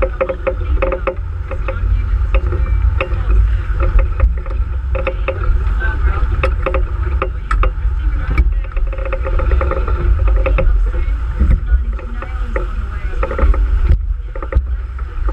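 Sailboat under way in a fresh breeze: a heavy low rumble of wind on the microphone and rushing water, with frequent short sharp knocks and slaps.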